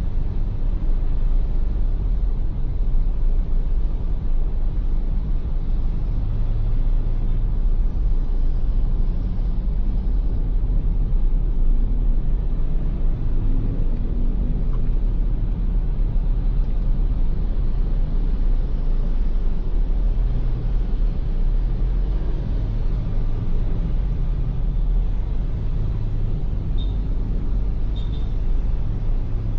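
Ford Everest SUV driving at a steady pace on a rain-wet road: a constant low rumble of engine and tyre noise with a hiss above it.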